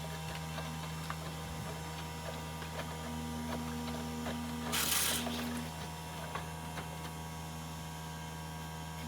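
Aidoo 1 kg mini washing machine's drain pump humming steadily, with a higher tone that comes and goes. The pump is struggling and not draining properly. There is a brief hiss about five seconds in.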